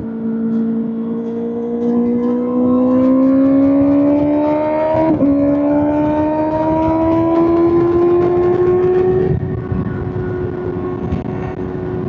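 Kawasaki ZX-6R inline-four engine through an SC-Project SC-1R exhaust, pulling under throttle with its pitch climbing slowly. There is a brief break about five seconds in, like a gear change, then the pitch climbs again. Near the end the throttle eases and the note falls quieter and holds steady.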